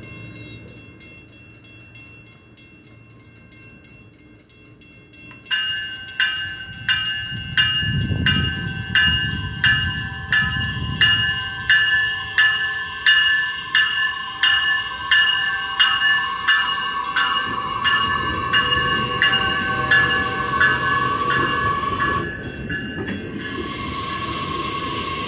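Metra Electric bilevel electric commuter train getting under way from a station stop. From about five seconds in until near the end, a bell rings in an even pulse, a little under two strikes a second, over the train's low rumble and a steady electric whine that grows louder. In the last few seconds, after the bell stops, the cars roll past with a rumble and hiss.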